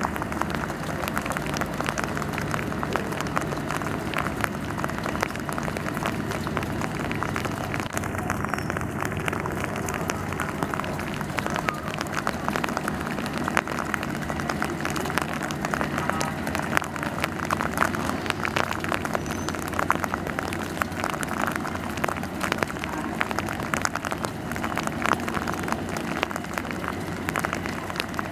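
Train running with a steady low rumble and dense, rapid clicking and clatter throughout.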